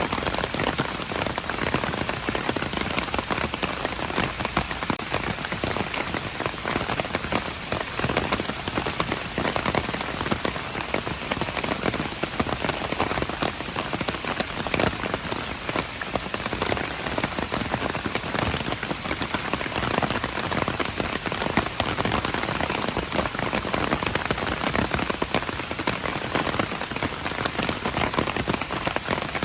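Steady rain falling, a dense, even patter of drops that holds without a break.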